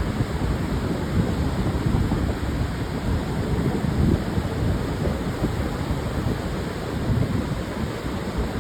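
Pacific surf washing onto a wide sandy beach, a steady dense rush with wind buffeting the microphone as a fluttering low rumble.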